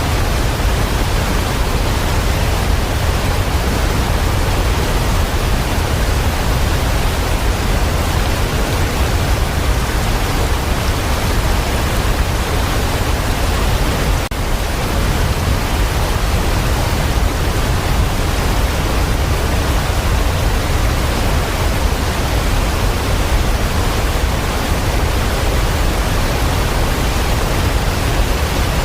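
Steady, even rushing noise from a nature-sounds relaxation track, heaviest at the low end, with no separate events and a brief dip about halfway through.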